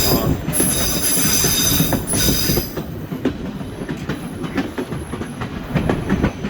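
White Pass & Yukon Route railway cars' steel wheels squealing against the rail with a high, steady ring for the first couple of seconds, then rumbling and clacking over the track joints.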